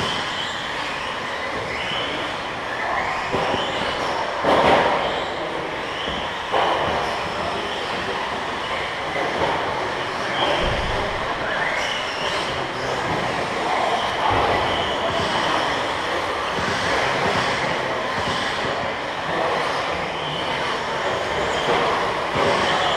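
A pack of radio-controlled stadium trucks racing, their motors whining up in pitch again and again as they accelerate out of corners over the steady noise of the field. A sharp knock about four and a half seconds in, like a truck landing or hitting something.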